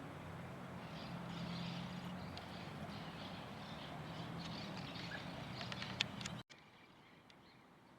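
Small birds chirping over a steady low hum, with a few sharp clicks just before the sound cuts off about six and a half seconds in to a much quieter background.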